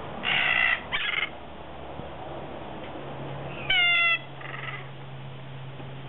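Birds calling: two short harsh screeches in the first second, then a single clear call falling slightly in pitch a little before the middle, followed by a softer call. A faint low steady hum comes in about three seconds in.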